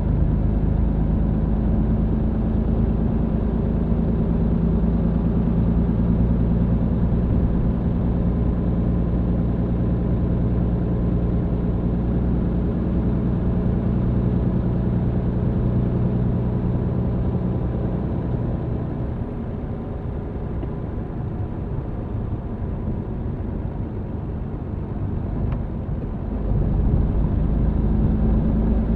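MAN TGX truck's diesel engine droning steadily from inside the cab under way, with road noise. It eases off for several seconds past the middle, then pulls harder again near the end.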